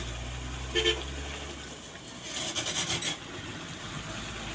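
Truck engine running with a low steady hum that fades away about two seconds in, a short toot just under a second in, and some rattling around the middle.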